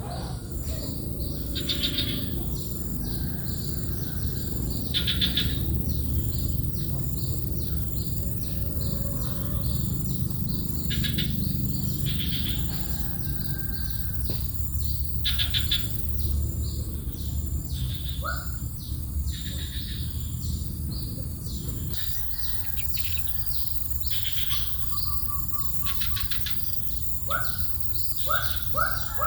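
Small birds chirping: many short, high chirps repeated throughout, with a run of quick rising calls near the end, over a steady low background noise.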